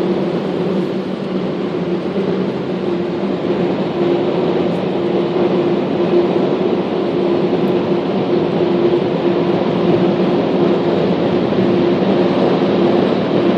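Automatic car wash dryer blowers running, a loud steady rush of air with a constant hum, heard from inside the car as they blow the water off.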